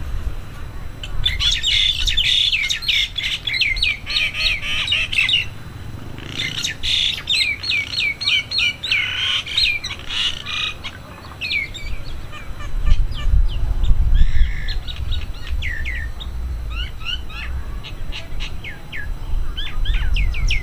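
A flock of small birds chirping busily: rapid, short downward-sliding chirps, densest in the first half and thinning out later. A low rumble runs underneath, swelling a little past the middle.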